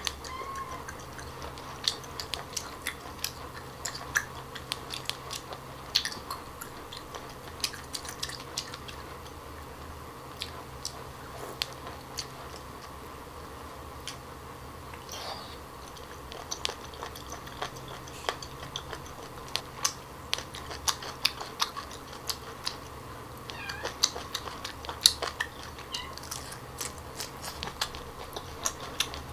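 Close-up wet chewing and mouth clicks of someone eating cooked octopus tentacle, with many short sharp clicks scattered throughout. There are brief rising or falling squeaky glides right at the start and again about three-quarters of the way through.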